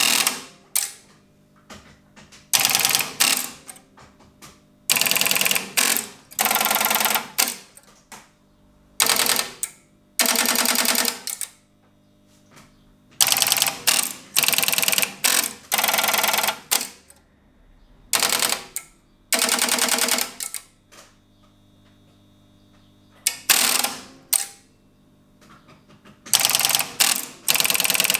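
Strowger telephone exchange switches operating: about a dozen bursts of rapid mechanical clicking, each lasting around a second, with single clacks and short pauses between them.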